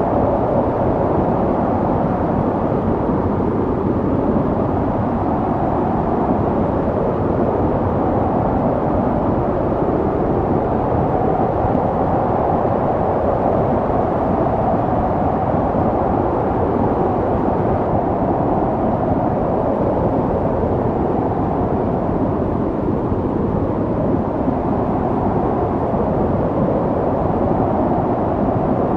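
Snowstorm wind blowing steadily, a dense rushing noise with slow, gentle swells.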